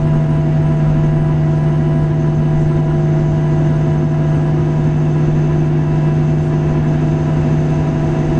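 Steady cabin drone inside a Boeing 737-700 on the ground, from the engines and air systems at idle. It has a strong low hum with several fainter steady tones above it, unchanging throughout.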